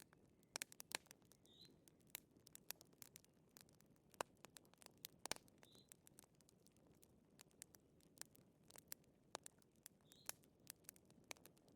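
Wood fire crackling in a fireplace: irregular sharp snaps and pops of varying strength over a faint low hiss.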